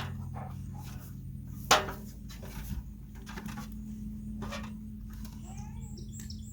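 A single sharp knock a little under two seconds in, over a steady low hum, with a few lighter clicks and faint bird chirps near the end.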